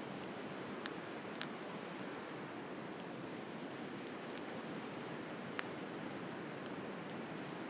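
Wood bonfire crackling, with three louder sharp pops and a few fainter ticks, over a steady wash of sea surf.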